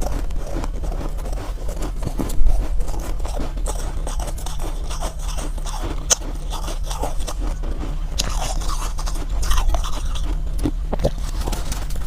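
Soft, powdery ice being bitten and chewed close to the microphone: a dense run of small, soft crunches, with a sharper bite about two seconds in.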